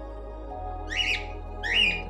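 Two short rising animal calls, about a second apart, over steady background music.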